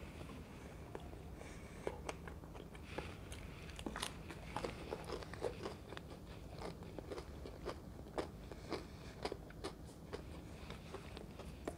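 Crunching and chewing of a crispy fried pakora in gram-flour batter, picked up close by lapel microphones: a bite at the start, then many irregular crunches as it is chewed.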